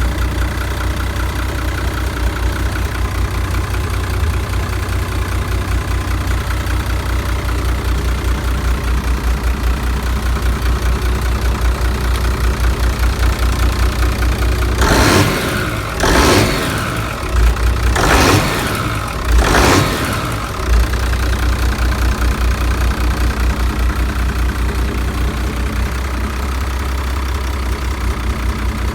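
Used Yamaha SX420 marine engine on a test run, idling with an even low pulse. About halfway through, the throttle is blipped four times in quick succession, each rev rising and falling, before it settles back to idle.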